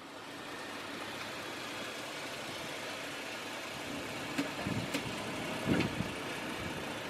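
A vehicle engine running steadily at idle, fading in over the first second and then holding, with a few faint short sounds near the middle.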